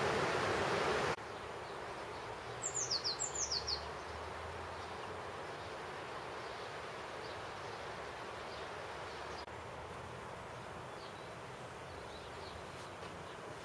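A small bird calling over a steady outdoor hiss: a quick run of about six short notes, each falling in pitch, a couple of seconds in, and fainter chirps later. The first second holds a louder rushing noise that cuts off suddenly.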